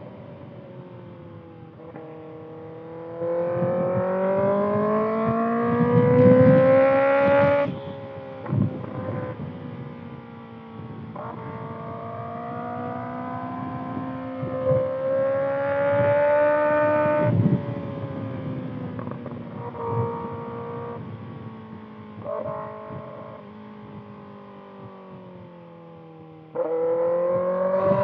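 Kawasaki ZX-6R's 636 cc inline-four, heard through a Voodoo Racing slip-on exhaust, pulling hard: its pitch climbs over several seconds and drops sharply, twice. It then runs lower and steadier before jumping louder again near the end, with wind noise on the camera's microphone.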